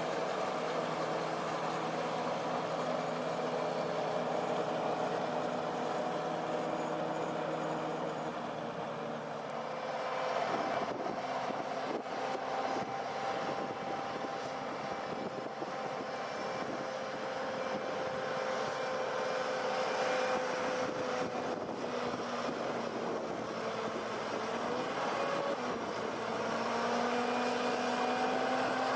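Heavy logging truck's diesel engine running under load, its pitch shifting. The engine note rises as it revs up near the end.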